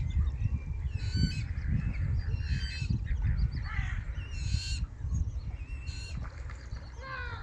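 Birds calling in short calls about once a second, over a steady low rumble.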